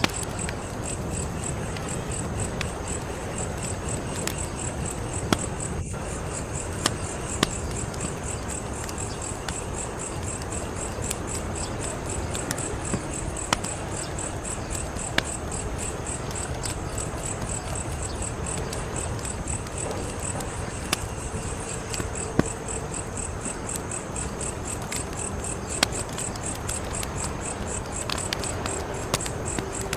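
Wood fire crackling, with sharp pops every few seconds over a low, steady rush. A high, evenly pulsing chirp runs behind it.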